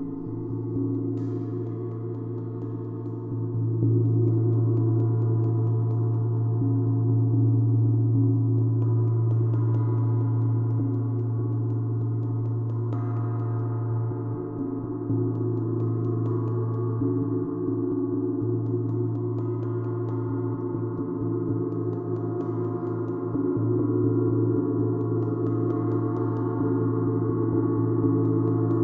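A gong played in a sustained wash of dense humming tones that swell and fade, freshened by soft strikes now and then and growing louder a few seconds in.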